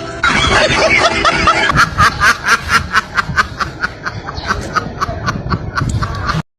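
Someone snickering and laughing in a quick, regular run of short laughs, about four a second, that stops abruptly near the end.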